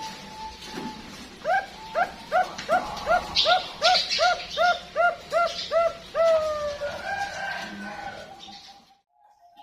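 Zebra dove (perkutut, Bangkok-bred song line) singing: a quick string of about a dozen short rising-and-falling coos, a little under three a second. The string ends in a longer drawn-out note about six seconds in, and a softer held note fades out near the end.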